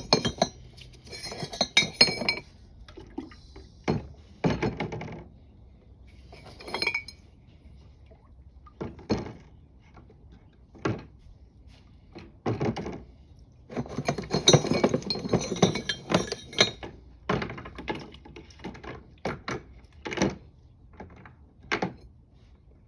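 Stainless steel parts and clamps clinking and knocking as they are handled and set down, in irregular single knocks and denser clattering clusters.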